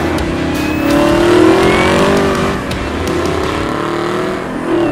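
Chevrolet Camaro ZL1's supercharged V8 accelerating hard, its pitch climbing, falling back about halfway through, then climbing again.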